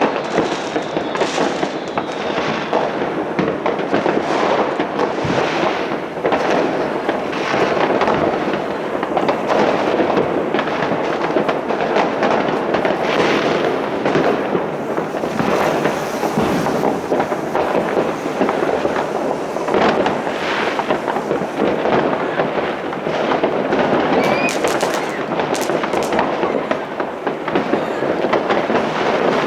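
Many fireworks and firecrackers going off all around at once: a continuous, dense barrage of overlapping bangs, pops and crackling with no pause.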